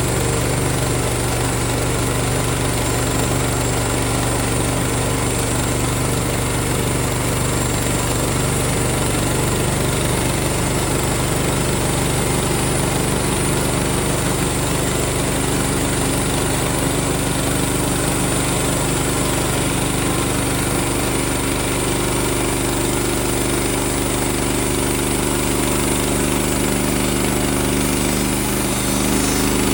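Small gas engine of a Woodland Mills HM126 portable band sawmill running steadily while the band blade cuts a board off a white pine log. The engine note shifts slightly in pitch about two-thirds of the way through.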